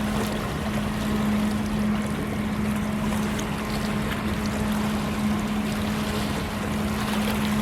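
A ship's engine droning steadily with a constant low hum, over an even rushing noise.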